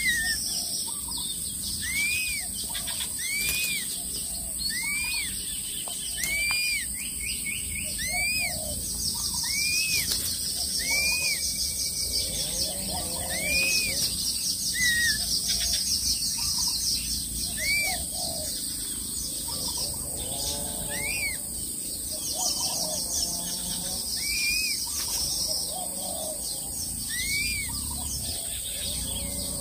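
A bird repeats a short whistled note that rises and falls, about every second or two, over a steady high insect trill.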